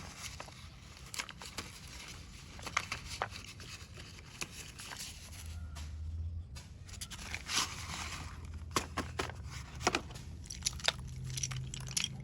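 Packs of slate pencils being handled and opened: crinkly packaging tearing and rustling, with scattered small sharp clicks.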